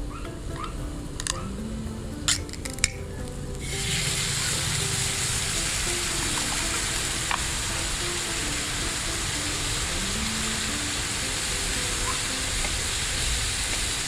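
Food frying in a hot pan, a steady sizzle that starts suddenly about four seconds in, after a few sharp clicks.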